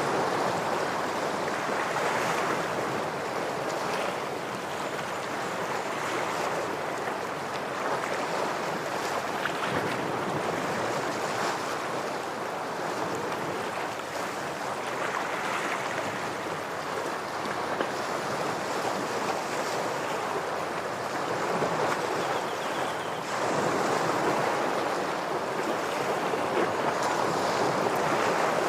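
Ocean waves washing and breaking against shoreline rocks, a steady surf noise that swells and eases in surges and grows louder near the end.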